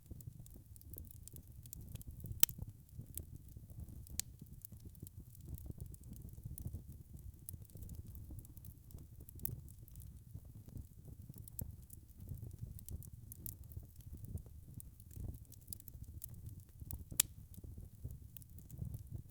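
Wood fire burning in a fireplace: a steady low rumble of flames with constant small crackles, and two sharper pops, one about two seconds in and one near the end.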